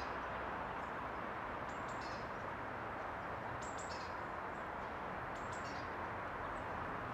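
Outdoor ambience: a steady, even background rush with a few short, high bird chirps in about three brief groups, near two, four and five and a half seconds in.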